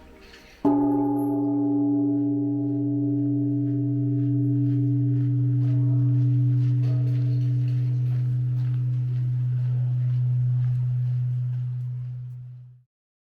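Large Japanese temple bell struck once, ringing on with a long, deep, steady hum that slowly fades.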